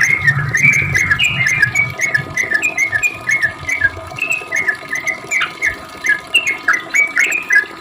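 Yellow-vented bulbul (trucukan) singing a long, unbroken run of short chirping notes, several a second, most of them slurring downward.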